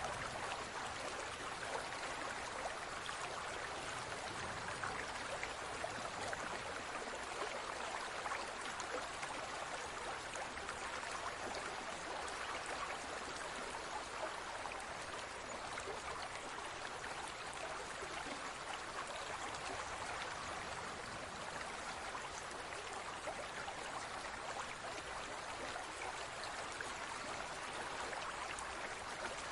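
Water in a large aquarium, a steady, even trickling.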